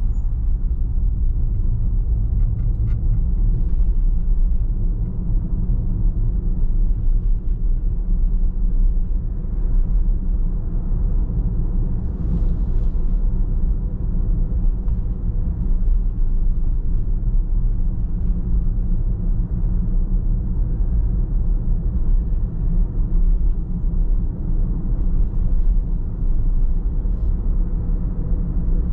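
A car on the move: a steady low road rumble, with a few faint light clicks here and there.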